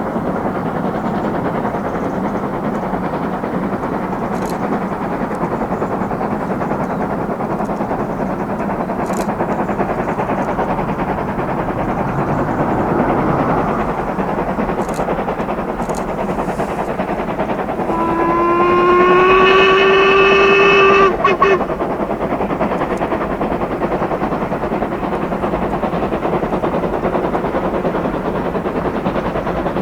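Steam locomotive whistle sounding one long blast of about three and a half seconds, rising slightly in pitch and ending with a couple of quick breaks, over a steady rushing noise.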